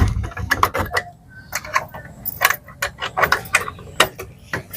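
A door being locked with a key: a quick run of metal clicks and rattles from the lock and keys.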